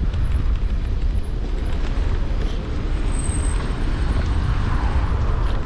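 Steady wind and road rumble at a handlebar-mounted action camera on a moving electric scooter, with scattered small rattles and clicks.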